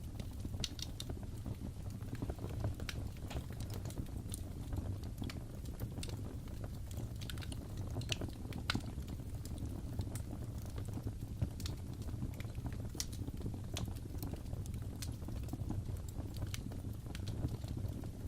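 Wood fire crackling: a steady low rumble of flames with irregular sharp crackles and pops scattered throughout.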